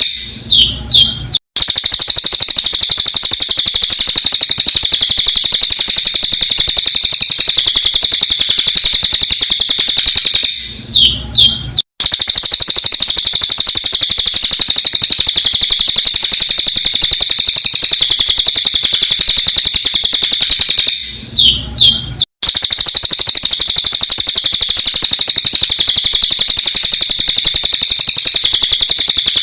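Cililin bird song, sped up: a dense, unbroken run of sharp, high-pitched chattering notes. About every ten seconds it breaks for a moment, with a few separate chirps, and the same stretch starts over.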